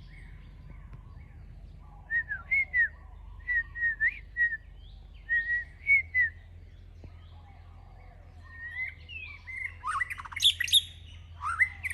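White-rumped shama calling: a string of short whistled notes, then louder, sweeping whistles that spread wider in pitch near the end.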